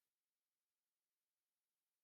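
Near silence: a pause in the narration with only faint background hiss.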